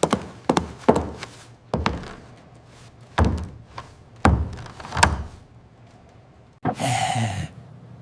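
A series of irregular hard knocks and thuds, about a dozen over five seconds. Near the end comes a short, noisy hissing burst.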